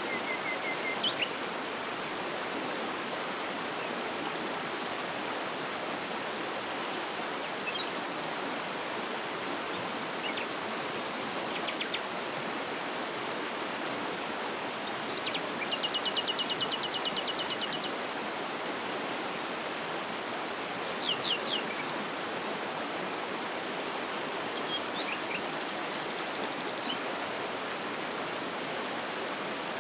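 Steady rush of a waterfall, with small birds calling over it: scattered short chirps and, about halfway through, a fast trill of rapidly repeated notes lasting about two seconds.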